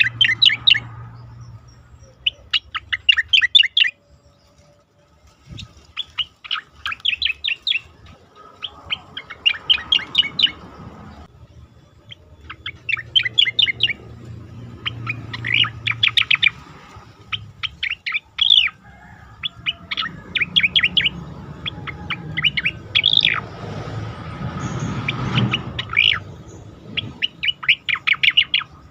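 Cica koreng (striated grassbird) singing: short phrases of rapid, high chattering notes, each about a second long, repeated with brief pauses, over a faint low hum.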